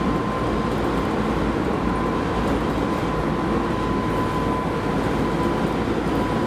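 Keisei Line rapid train running at steady speed: a continuous rumble of wheels on rail with a steady high whine held on one pitch.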